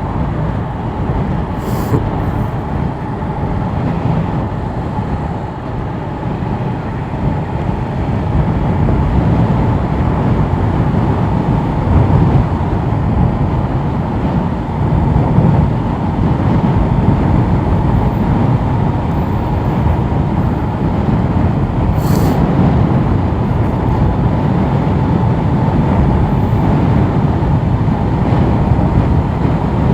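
Yamaha R7 parallel-twin motorcycle riding along at steady speed, engine running under a heavy rush of wind noise on the microphone. A light click about two seconds in and again about twenty-two seconds in.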